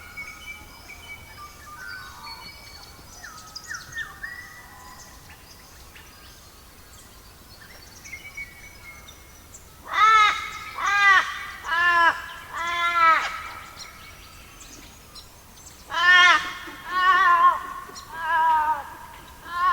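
Small birds chirping faintly, then about halfway in an animal gives loud, repeated calls that rise and fall: two runs of four, about a second apart.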